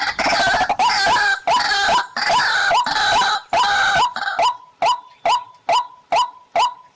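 Waterhen calling: the same short hooked note repeated evenly about twice a second. For the first four and a half seconds a harsher, denser calling runs over it, then stops and leaves the repeated note alone.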